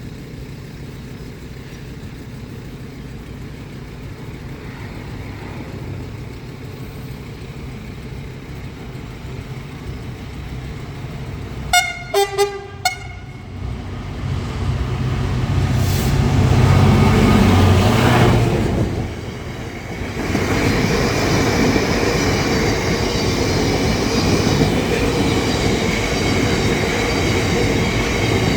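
Train passing a level crossing. It sounds a European-style horn in three short blasts about twelve seconds in, its rumble builds to a peak a few seconds later, and it keeps rolling by steadily.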